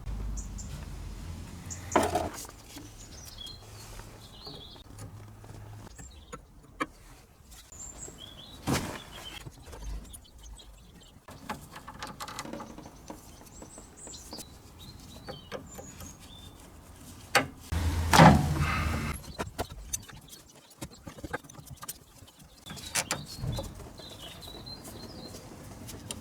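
Scattered metallic knocks and clanks of hand work on the car's front suspension, a few of them louder, with small birds chirping in the background.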